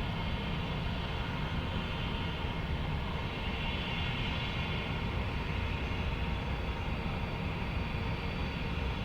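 Airbus A321 jet engines at takeoff power, a steady rushing noise.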